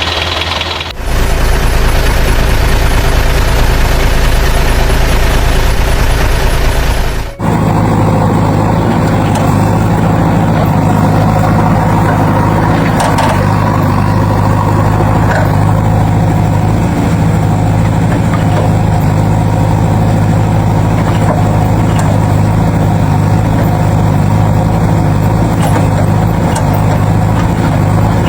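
Tractor-style diesel engine sound, running steadily at a low pitch, with abrupt changes in tone about a second in and again about seven seconds in.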